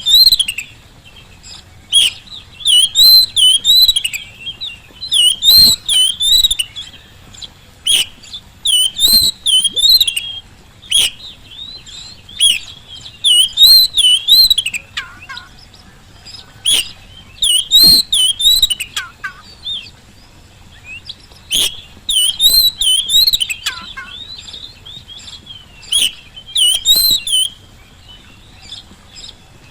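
Oriental magpie-robin (kacer) singing loudly in short, repeated warbling phrases every second or two, with sharp clicks among the phrases.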